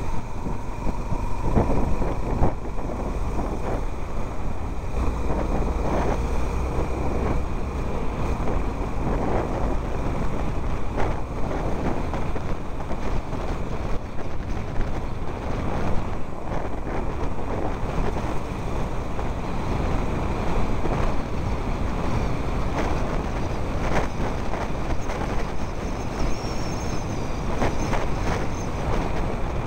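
A vehicle driving over a rough, muddy road under construction: steady rumble with frequent knocks and jolts from the bumps.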